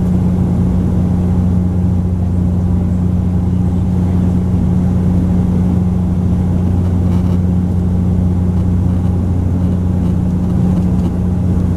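Bombardier Dash 8 Q400's turboprop engines and propellers heard from inside the passenger cabin: a steady low drone with a deep hum and a second hum an octave above it, unchanging throughout.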